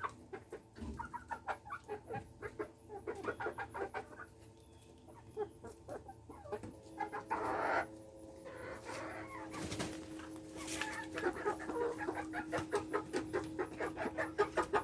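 Polish chickens clucking in quick uneven runs of short clucks.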